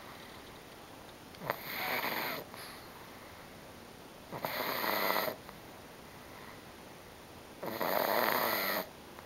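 A pug snoring in deep sleep: three long, loud snores about three seconds apart. The sound is of a dog worn out from a long day.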